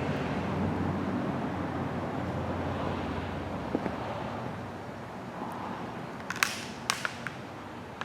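Dodge 360 V8 running on its freshly rebuilt two-barrel Holley carburettor, with a hole in the exhaust pipe. The engine fades away over the first few seconds. A handful of sharp clicks come about six to seven seconds in and are the loudest sounds.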